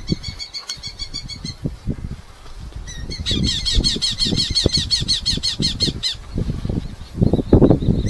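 Red-footed falcon giving rapid runs of repeated high, harsh calls, a short run at the start and a longer one of about seven notes a second from about three seconds in. Under the calls are low knocks and rustling of handling, loudest near the end.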